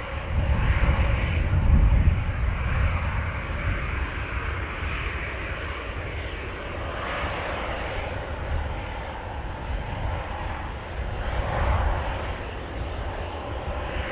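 Airliner engines running at the airport, a steady whooshing drone that swells and fades, with gusts of strong wind buffeting the microphone, heaviest about two seconds in and again near the end.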